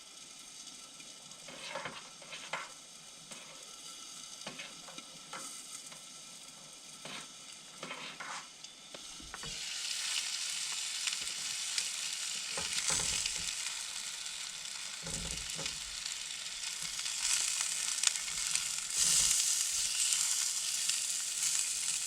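Bratwursts sizzling in a frying pan, with a few light knocks in the first half. About halfway through the sizzle grows much louder and stays loud.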